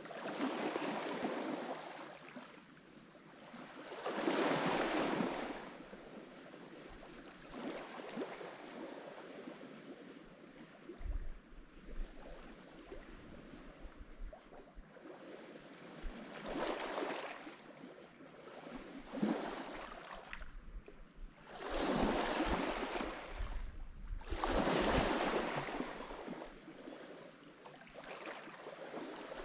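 Lake Michigan waves breaking on the shore: irregular surges of hissing surf every few seconds, each swelling and falling away over a second or two, with a quieter wash of water between them.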